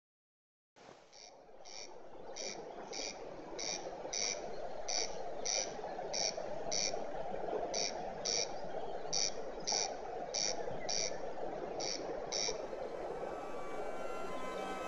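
Outdoor ambience: a bird repeats a short, shrill call about twice a second over a steady soft hiss. Near the end, music fades in over it.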